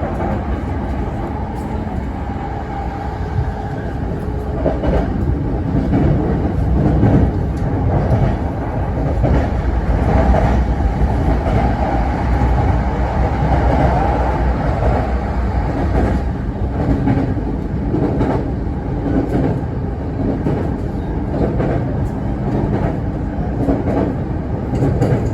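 Keihin-Tohoku Line commuter train heard from inside the car while running: a steady low rumble of wheels and running gear, with light clicks over the rail joints, swelling somewhat partway through.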